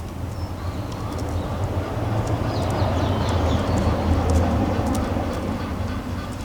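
Low rumble of a passing vehicle that swells to a peak about four seconds in and then fades, with small birds chirping faintly over it.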